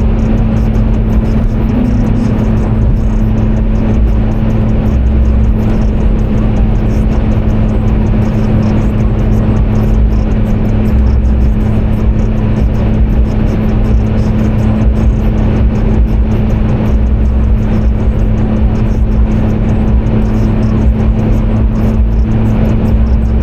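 Car driving, heard as a steady, loud drone of engine and road noise with a constant hum. Low rumbles come and go every few seconds.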